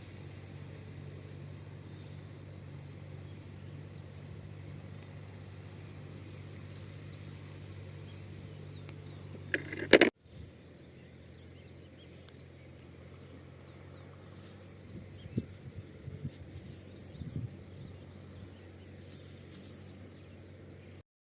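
Outdoor ambience: a steady low hum with a bird's short, high, falling chirps repeating every second or two. About ten seconds in comes a loud crackling bump, after which the hum is quieter and a few light knocks follow.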